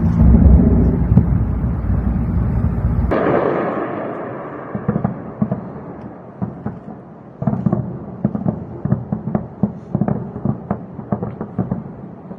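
A loud deep rumble that cuts off abruptly about three seconds in, then a burst and a long, irregular run of sharp cracks and pops, several a second: distant explosions and rapid fire over a city at night.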